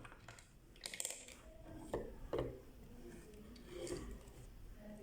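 Handling of small parts and tools: a few separate clicks, taps and rubs, roughly one a second, the loudest about two seconds in.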